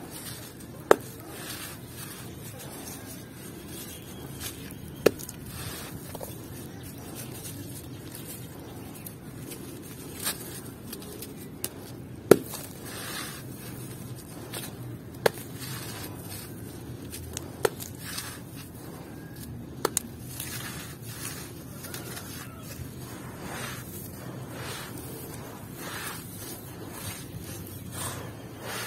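Crunchy yellow block chunks breaking and crumbling, with single sharp snaps a few seconds apart, then a quicker run of smaller crackles near the end.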